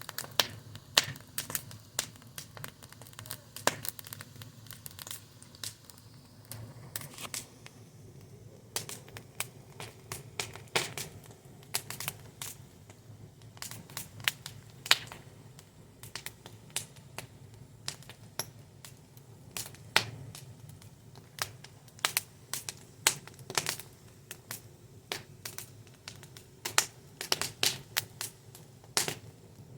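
Wood fire crackling, with irregular sharp pops and snaps, several a second at times, over a faint low rumble of burning.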